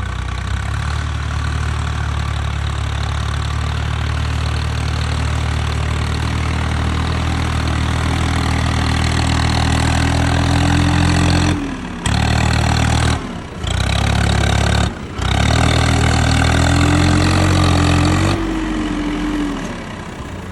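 Swaraj 855 FE tractor's three-cylinder diesel engine running steadily while pulling a fully loaded trolley. The sound drops out briefly three times a little past halfway, and the engine note eases off near the end.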